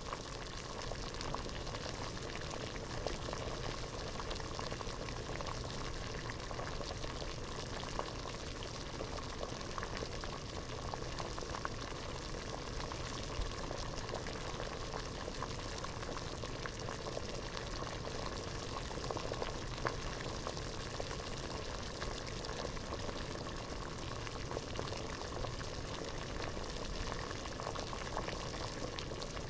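Water boiling hard in a pot: a steady bubbling and seething, dense with small pops, even throughout.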